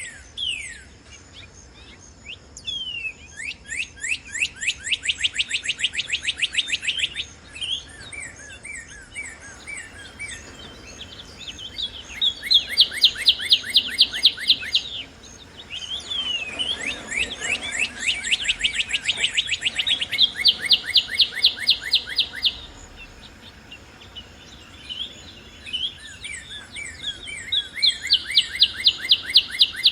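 Northern cardinals singing: long phrases of rapidly repeated down-slurred whistled notes, in several bursts with single slurred whistles between them. Thinner, higher trills overlap at times.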